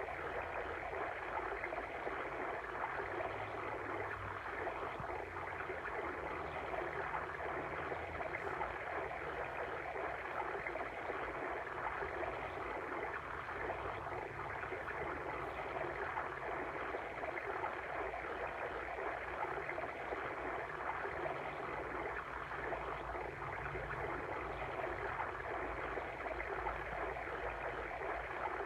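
Flowing water of a stream, a steady babbling rush with no breaks.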